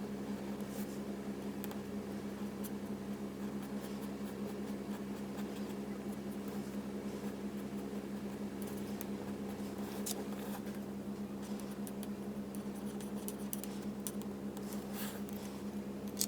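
Faint, intermittent scratching of a Stampin' Blends alcohol marker's tip stroking over stamped cardstock, under a steady low hum.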